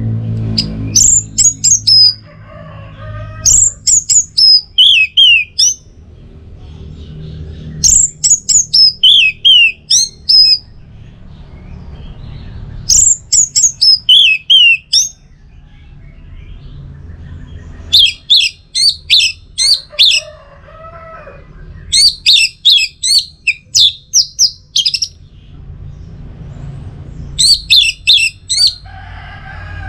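Orange-headed thrush (anis merah) singing in about seven phrases of quick, high, sliding whistles, each a couple of seconds long and spaced about five seconds apart. A softer, lower warble comes between some phrases, over a low steady hum.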